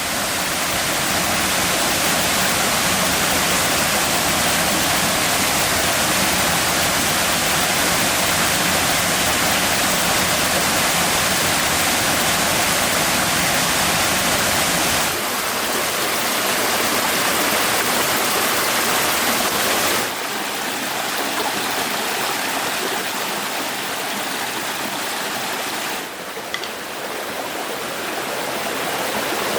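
Rushing water running steadily. Its level and tone shift abruptly about halfway through, again about two-thirds in, and once more near the end.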